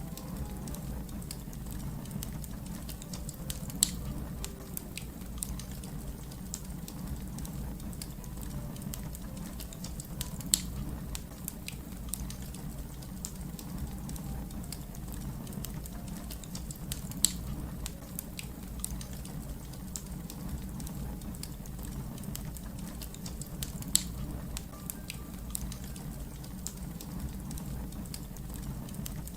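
Wood fire burning with a steady low rumble and constant small crackles. A sharp, louder pop comes every six or seven seconds.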